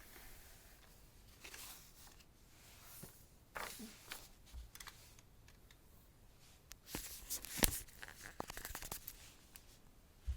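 Large paper poster being handled: irregular paper rustling and crinkling, with a sharp crackle about three quarters of the way through followed by a quick run of small crackles.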